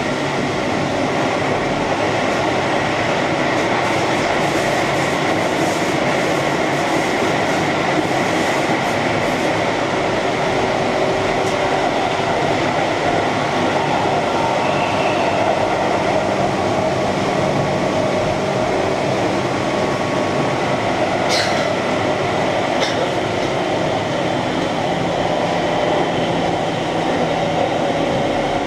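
Keihan Main Line electric train running between stations, heard from inside the car: a steady rumble of wheels on track and running gear, with a couple of brief sharp clicks about two-thirds of the way through.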